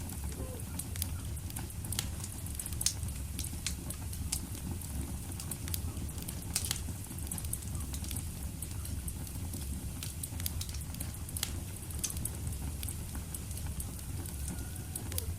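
Wood fire burning in a fireplace: a steady low rumble of flame with scattered sharp crackles and pops throughout, a couple of louder pops about three and seven seconds in.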